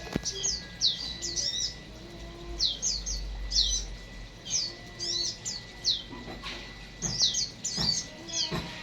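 Small aviary birds chirping: clusters of short, high, downward-sweeping chirps repeated every second or so, with a few sharp knocks near the end.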